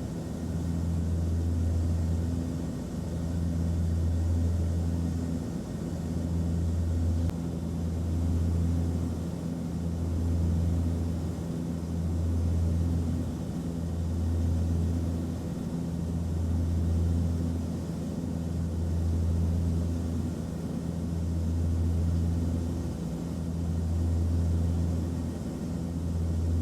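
Airliner cabin noise: the steady low drone of the engines and airflow heard from inside the cabin, over an even hiss. The hum swells and dips every couple of seconds.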